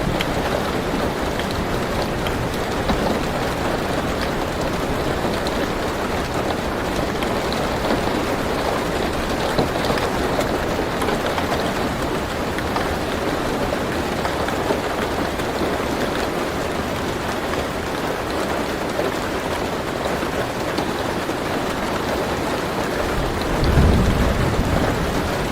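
Steady rain drumming on a car roof, heard from inside the car. A short low rumble of thunder comes in near the end.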